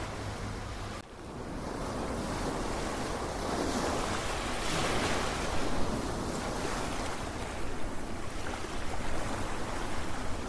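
Ocean surf: waves washing in, swelling to a peak around the middle. There is a brief dropout in the sound about a second in.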